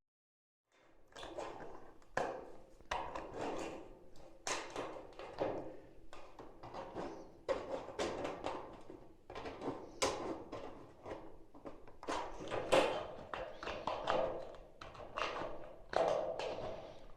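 Irregular knocks, taps and light clatter of hand work, pieces of building material being handled and set in place, starting about a second in.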